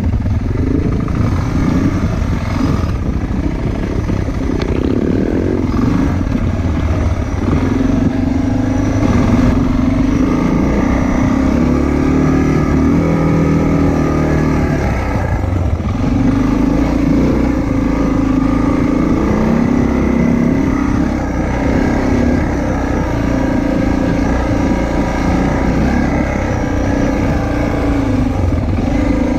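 Motorcycle engine running while riding, its pitch rising and falling with throttle and speed, over a steady low rumble.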